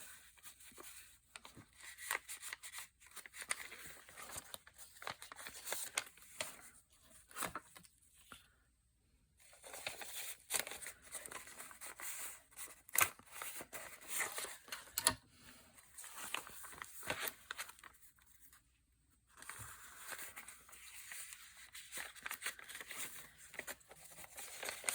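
Paper being handled and crinkled while pieces of a paper craft are fitted together: irregular rustling with sharp little taps and clicks, pausing briefly twice.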